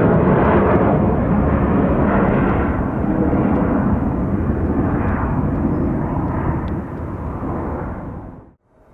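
Departing regional jet's engines at takeoff thrust: a loud, steady jet noise that slowly fades as the aircraft climbs away, then cuts off abruptly near the end.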